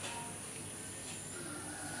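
Lull in an orange-headed thrush's song: only faint, short whistled notes over a steady hiss.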